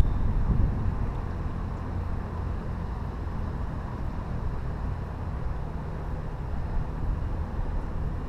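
An engine running steadily with a low rumble, and wind noise on the microphone.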